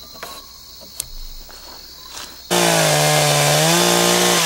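A few faint hammer clicks against a nail with crickets chirping, then about two and a half seconds in an Echo CS-590 two-stroke chainsaw comes in abruptly at full throttle, ripping lengthwise through an oak log on a beam-riding chainsaw mill. Its pitch sags a little under the load of the cut.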